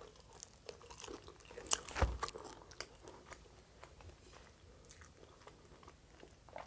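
A person biting into a toasted French hot dog bun, with the loudest crunch about two seconds in, then chewing with small clicking mouth noises.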